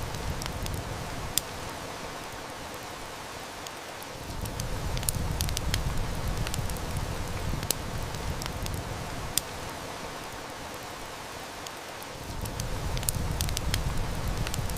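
Heavy rain falling steadily, mixed with a wood fire whose crackles give sharp single snaps every second or few. Under it a low rumble fades out twice, about two and ten seconds in, and swells back about four and twelve seconds in.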